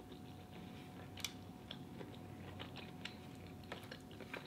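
Quiet chewing of seafood boil, with scattered small clicks and crunches, the sharpest about a second in.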